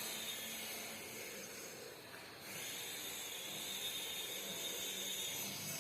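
Steady faint hiss of background noise with no clear source, dropping away briefly a little after two seconds in.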